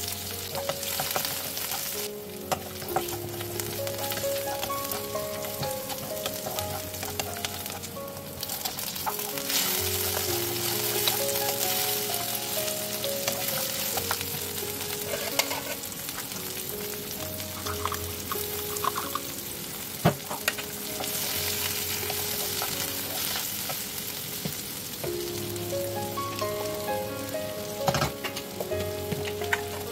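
Sliced onions and tomatoes sizzling as they fry in oil in a pan, stirred with a spatula, with a sharp knock of the spatula on the pan about two-thirds of the way through and a couple more near the end. Quiet background music with a melody plays underneath.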